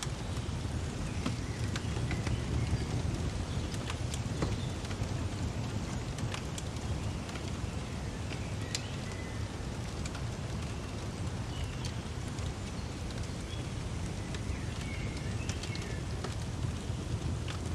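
Fireplace crackling, with scattered sharp pops over a steady low rumble, and short bird chirps now and then.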